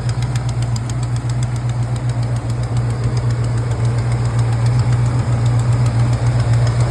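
Dodge big-block V8 idling steadily, with a rapid even pulsing from a leaking exhaust manifold connection that is blowing out.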